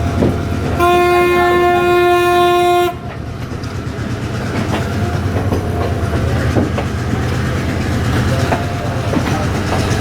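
Diesel locomotive horn sounding one steady note for about two seconds, about a second in, over the low rumble of the train. Wheel clicks over rail joints continue as the train pulls out of the station.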